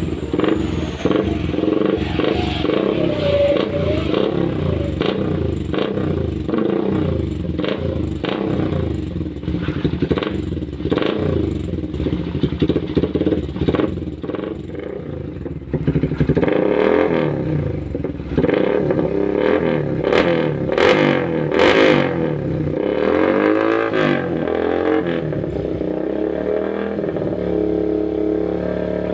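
Yamaha Vixion's 150 cc single-cylinder engine running through a DRS aftermarket racing exhaust, idling and revved in repeated short throttle blips. A run of harder revs comes about two-thirds of the way through.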